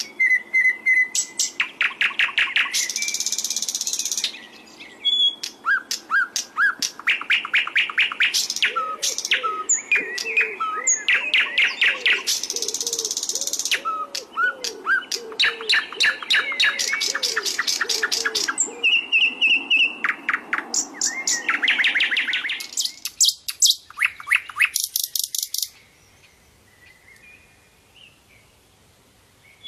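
Sikatan londo (a flycatcher) song: fast, varied trills and chattering notes with two long, harsh, buzzy phrases. The song thins to a few scattered notes in the last several seconds and goes almost quiet near the end.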